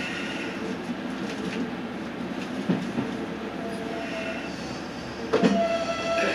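Diesel railcar running, heard from inside the car as a steady rumble with the odd knock. About five seconds in there is a sharp clunk, and then a steady high-pitched tone sets in.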